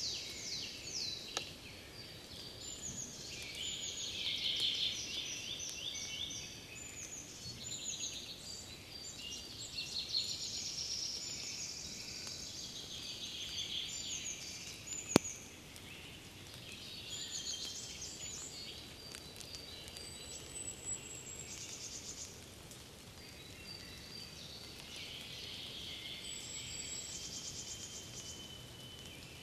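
Several songbirds singing at once in a spring forest, with quick trills and repeated phrases overlapping one another throughout. A single sharp click sounds about halfway through.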